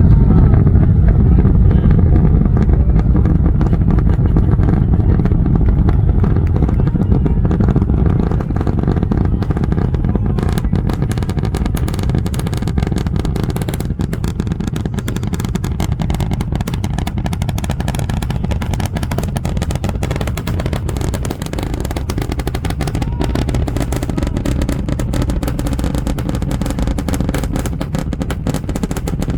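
Deep, continuous rumble of Starship's Super Heavy booster and its 33 Raptor engines at launch. About ten seconds in, a dense crackling sets in over the rumble, and the whole sound slowly fades.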